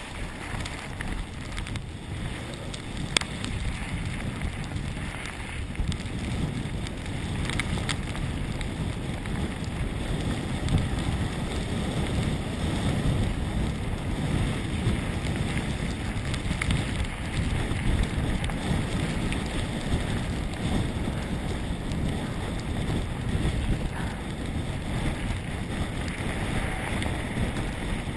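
Wind buffeting the microphone of a mountain bike's onboard camera and the steady rumble of the bike descending a rough trail at speed, with a sharp knock about three seconds in.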